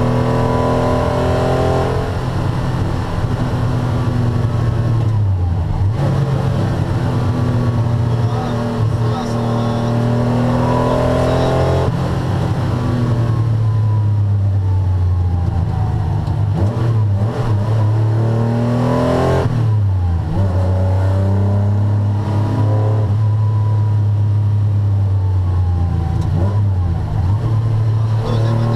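Air-cooled 3.0-litre flat-six of a 1981 Porsche 911 SC driven hard, heard from inside the cabin. The revs climb under acceleration and drop sharply at several gear changes, with a stretch of falling revs midway under braking and downshifts.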